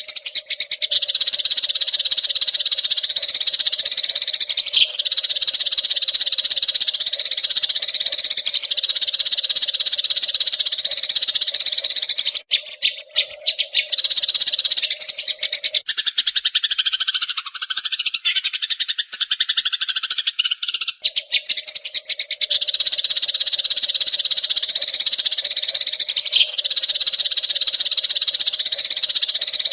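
Eurasian tree sparrows (burung gereja) chattering in a dense, continuous stream of rapid chirps, with a steady low tone beneath. The chatter breaks up briefly in the middle and changes to lower chirping for several seconds before the full chatter resumes.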